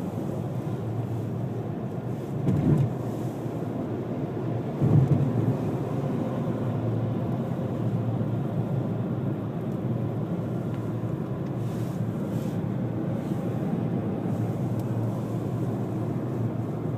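Car driving on a highway, heard from inside the cabin: steady road and wind noise through a sandstorm, with two brief louder surges about two and a half and five seconds in.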